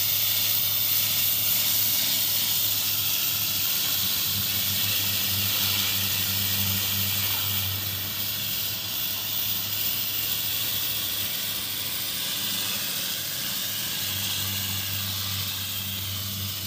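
Pressure washer spraying water: a steady hiss over a low, even motor hum, easing slightly after about eight seconds.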